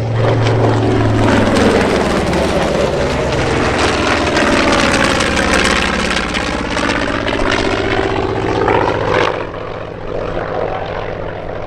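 Piston-engine World War II fighters making a low dogfight pass, their propeller engines running loud and sweeping in tone as they pass overhead, then falling away about nine seconds in.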